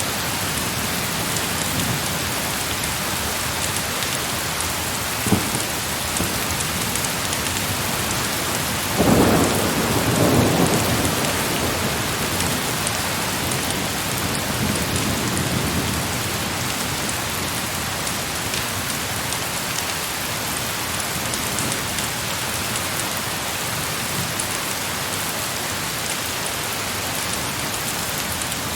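Heavy rain falling steadily. About nine seconds in, a rumble of thunder swells and fades away over several seconds; there is a single sharp pop a few seconds before it.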